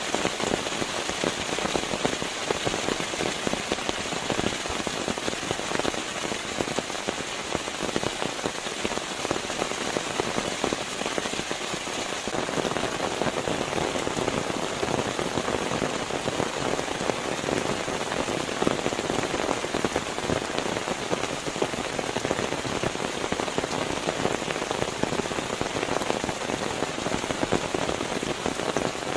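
Steady rain, a dense stream of drops striking a surface, with no let-up.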